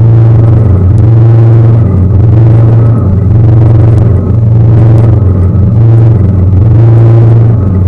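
Tour boat's engine running steadily under way, a loud low drone whose level swells and eases about once a second.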